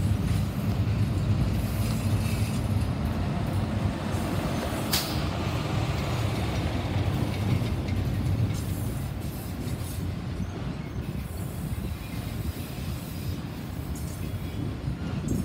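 Freight train's enclosed autorack cars rolling past on the rails: a steady low rumble of wheels and cars, with one brief sharp noise about five seconds in.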